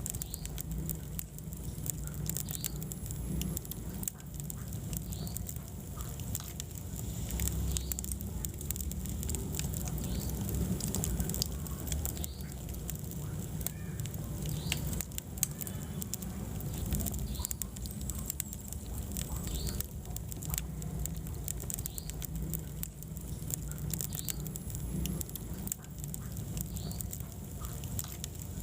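Wood fire burning in a fireplace: a steady low rumble of flames with frequent sharp crackles and pops, and an occasional faint squeak or hiss from the burning logs.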